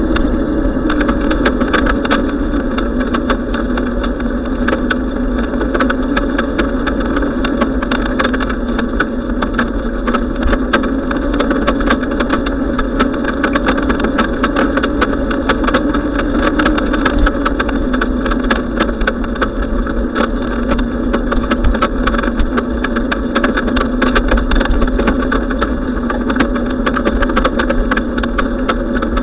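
Steady noise of a bicycle in motion, with a low rumble and a constant hum, and many small rattling clicks all through.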